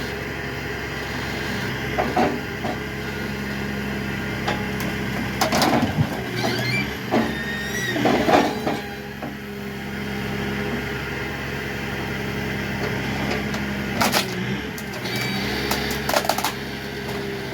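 An engine runs steadily under a scatter of metal clanks and knocks, with a few short squeals, as parts are pulled loose from the truck's front end.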